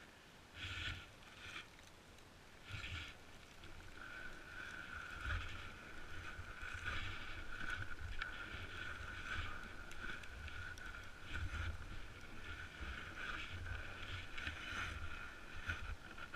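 Snowboard sliding and scraping over snow, in short bursts at first and then continuously from about four seconds in, with wind buffeting the microphone.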